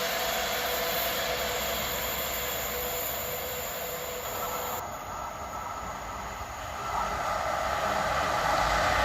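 Train running through a station on the rails, its noise slowly fading; about five seconds in the sound changes abruptly and then builds up again toward the end.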